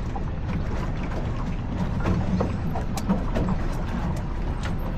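Pedal boat being pedalled: the pedal drive clicking and knocking over a steady low rumble, with one sharp click about three seconds in.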